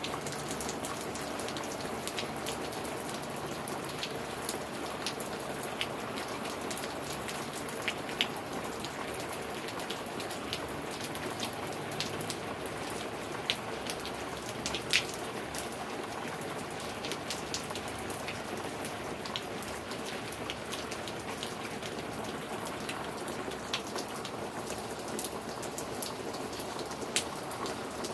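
Steady rainfall, a constant hiss with many individual drops ticking sharply on a hard surface, a few of them louder.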